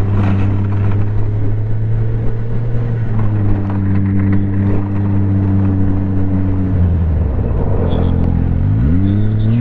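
Snowmobile engine running at a steady pitch while riding. About seven seconds in the engine note drops, then rises and falls again as the throttle is let off and opened back up.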